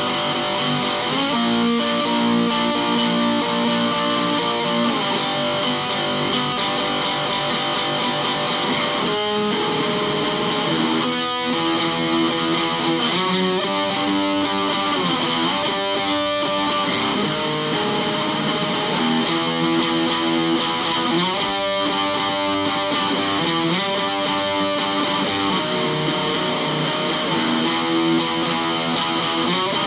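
Electric guitar playing an improvised piece with distortion: sustained chords that change every second or two.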